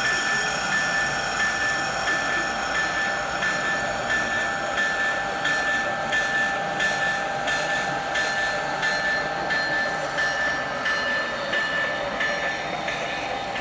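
HO scale model train running along its layout track: a steady whine, with a regular clicking about one and a half times a second that starts a few seconds in.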